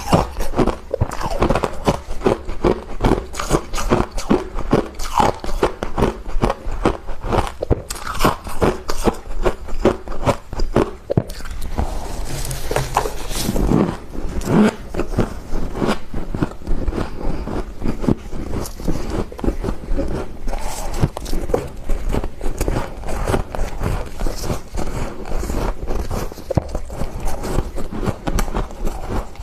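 Close-up crunching and chewing of thick freezer frost: dense rapid crackles and bites, with a smoother stretch of scraping about halfway through.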